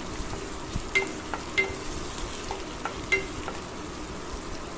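Chopped onions, green chillies and chana dal sizzling steadily in hot oil in a non-stick kadai while a plastic spoon stirs them, sautéing until the onions lose their raw smell. A few sharp clicks of the spoon against the pan stand out above the sizzle.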